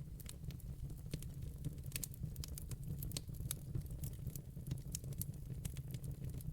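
Logs burning in a fireplace, crackling with many irregular sharp pops over a steady low rumble.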